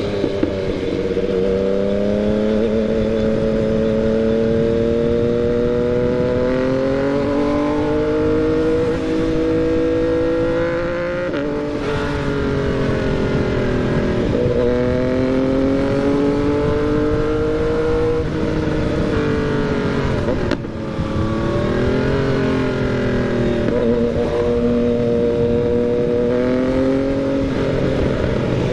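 Yamaha MT-09 inline three-cylinder motorcycle engine pulling under light throttle. The revs climb slowly, then drop sharply about six times in the second half as it changes gear.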